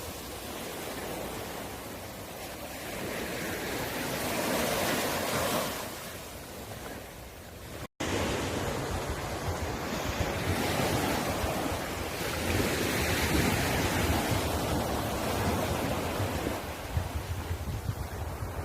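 Sea surf breaking and washing ashore, swelling and ebbing every few seconds, with wind rumbling on the microphone in the second half. The sound cuts out for an instant about eight seconds in.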